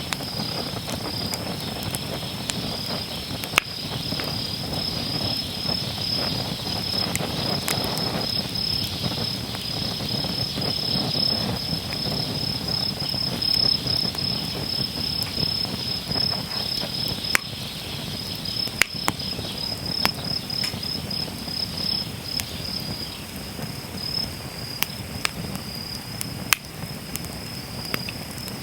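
Wood campfire burning with a low rushing sound and occasional sharp pops and crackles, under a steady high-pitched trill of insects.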